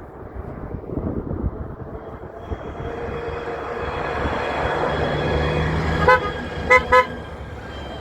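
A truck approaching with its engine and tyre noise growing louder, then three short horn toots in quick succession, the last two close together.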